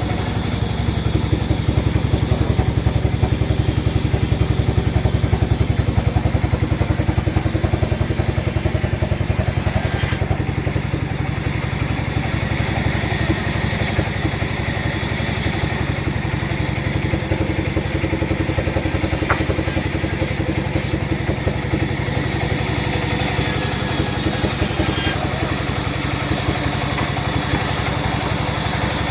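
Sawmill machinery running steadily: an engine-like drone with an even rapid pulse and a hissy high-pitched layer that eases somewhat about ten seconds in.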